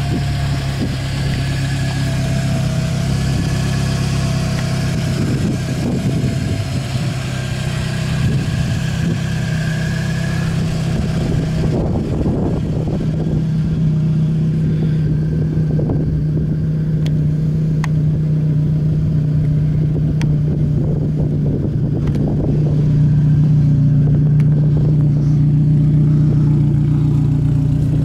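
2008 Scion xB's 2.4-litre four-cylinder engine idling steadily.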